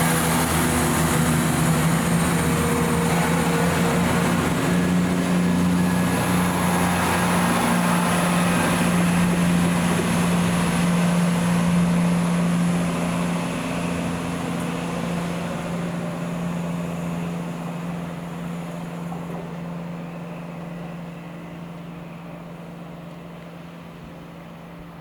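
A train running past, loud with a steady hum for about half the time, then fading away as it moves off.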